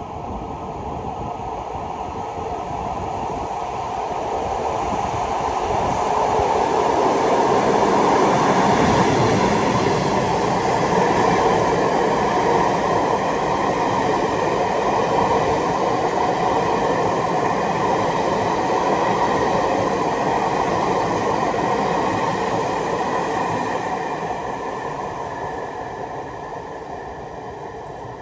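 A nine-car passenger train hauled by a Taiwan Railways E300-series electric locomotive, E302, passes through without stopping. The rolling noise of wheels on rail grows over the first several seconds, stays loud for about a quarter of a minute, then fades as the train moves away.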